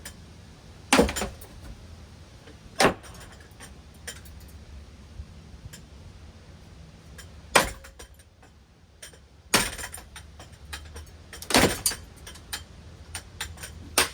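Hunter Coastal Breeze Plus ceiling fan running with a low steady hum, broken by five loud clattering bangs at uneven intervals as the damaged fan is knocked about, its switch housing hanging loose.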